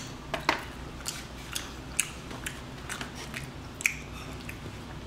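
Mouth sounds of eating hot chicken wings: chewing and lip smacking, an irregular string of short wet smacks, roughly two a second.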